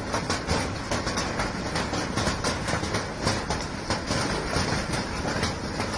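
Hailstorm: hailstones pelting down hard, a dense unbroken clatter of many small impacts mixed with the hiss of rain.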